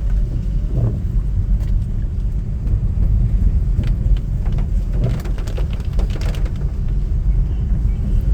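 Steady low rumble of a vehicle travelling on a rainy road, with a few faint ticks scattered over it.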